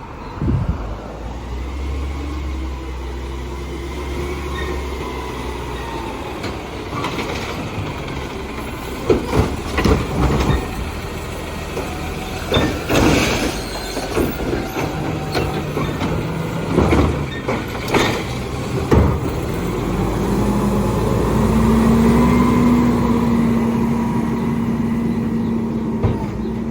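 Garbage truck engine running, with a series of bangs and clatters near the middle as a trash barrel is lifted and emptied into the hopper. Near the end the engine speeds up and holds a steady tone while the hydraulics work.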